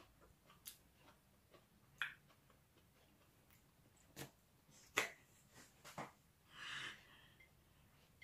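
Quiet mouth sounds of eating juicy mango: a handful of separate wet clicks and lip smacks, the loudest about five seconds in, and a short hissing rush of breath near the end.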